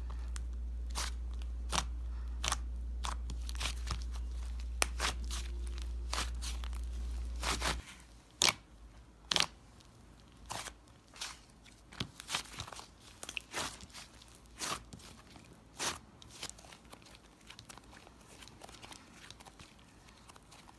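Paper crafting: irregular crinkles, taps and clicks of paper and small craft parts being handled. A low hum under it cuts off about eight seconds in.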